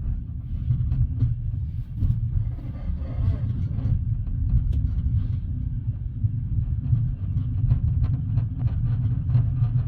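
Passenger train running, heard from inside the carriage: a steady low rumble with frequent faint clicks and rattles.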